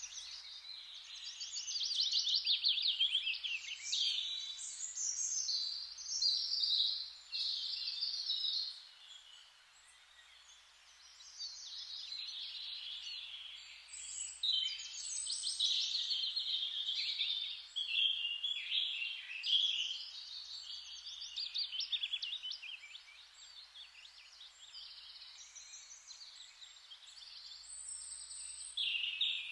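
Songbirds singing, their songs overlapping, with a short lull about a third of the way through.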